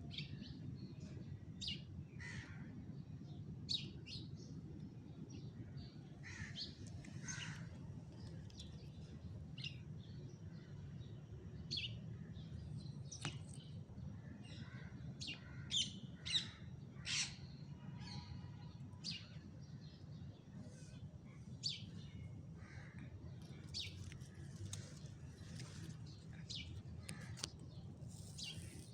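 Birds chirping and calling on and off, many short high chirps scattered throughout, over a steady low hum.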